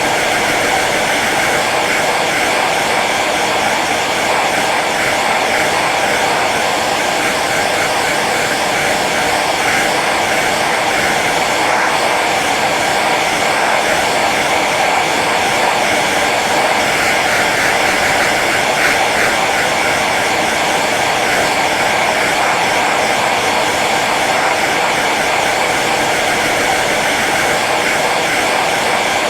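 Hair dryer running steadily on its low setting: an even rush of blown air over the hum of its fan motor.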